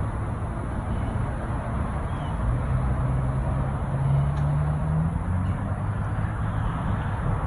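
Low rumble with a vehicle engine's hum that rises slowly in pitch through the middle.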